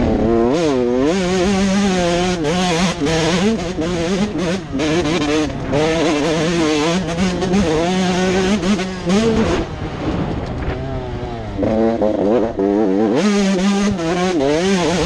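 Motocross bikes running on the track. Their engines rev up and down over and over with quick throttle changes, and more than one engine can be heard at once.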